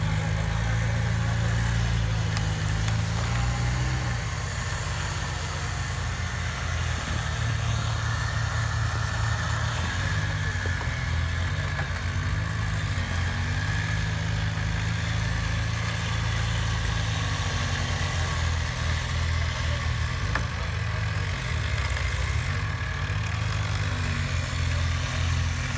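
Off-road 4x4's engine running at low revs, a steady low-pitched sound whose pitch shifts slightly now and then.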